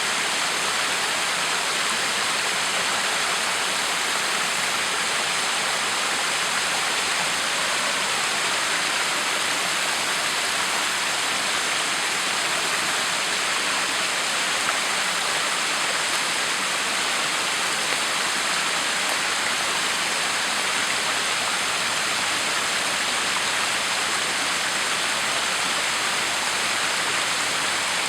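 Backyard waterfall: water falling and splashing in a steady, unbroken rush.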